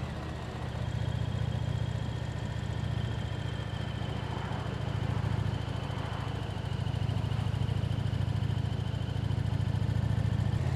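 Motorcycle engine running at a steady cruise, a low even drone that swells slightly now and then.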